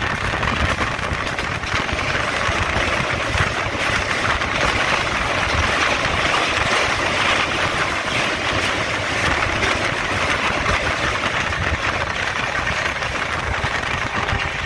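Steady rumble and rush of a moving electric local train heard at an open coach window: wheels running on the rails, plus wind. Another train is running on the next track. The noise grows brighter in the middle while the trains cross a river bridge.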